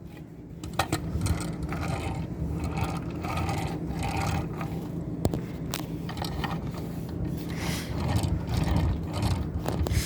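A die-cast metal model truck being handled and turned over: continuous scraping and rubbing with scattered light clicks.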